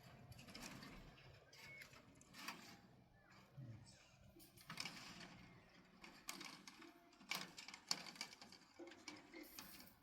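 Faint, irregular clicks and knocks, a few a second at most and loudest near the end, over a quiet background.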